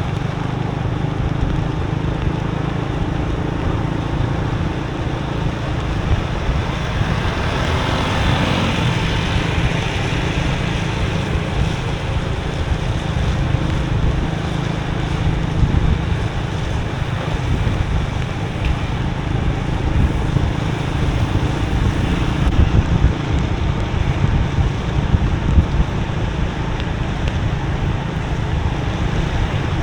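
Motorbike riding on a wet road: a steady low engine and wind drone with road noise, and a hiss that swells and fades about eight seconds in.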